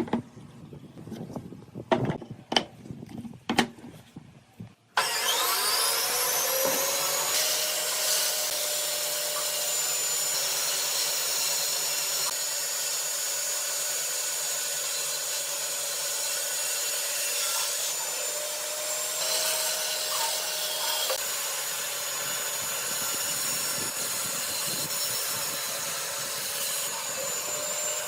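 A few sharp wooden knocks and clicks, then about five seconds in an electric power tool spins up and runs steadily with a whine, working on wood.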